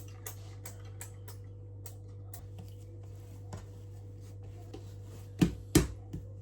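Hands working bread dough on a kitchen worktop: scattered light taps and clicks, then two heavy thumps close together near the end, over a steady low hum.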